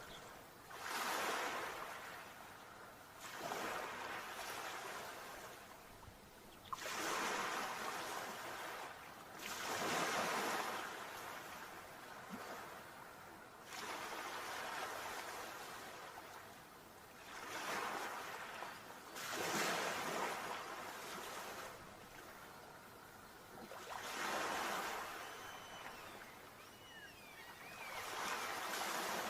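Sea waves breaking and washing in, swelling into a rush of surf every few seconds with a softer hiss between.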